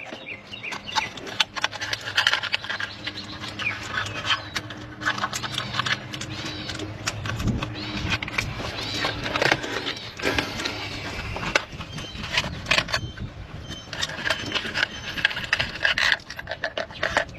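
Irregular metallic clinks, rattles and scrapes of hand tools and spark plugs being handled, with birds chirping now and then.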